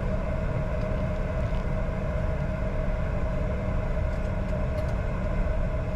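Steady cockpit noise of a Bombardier Challenger 605 taxiing with its engines running at idle: a low rumble under a constant mid-pitched whine.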